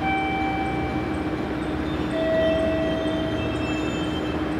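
Marine Liner electric train pulling slowly into a station platform. Two held whining tones ring out over its running noise: one at the start and a lower one about two seconds in, lasting about two seconds.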